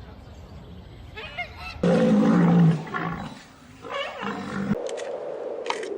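A large animal's loud, low-pitched call about two seconds in, followed by a few shorter calls, then a steady hum to the end.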